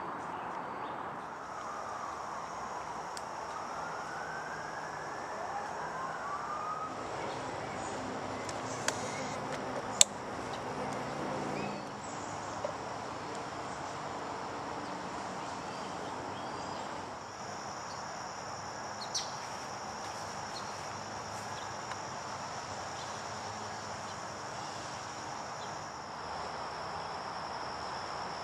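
Outdoor ambience of steady distant traffic noise with a constant high-pitched insect-like trill. A few seconds in, a distant siren wails up and down. A couple of sharp clicks come about nine and ten seconds in.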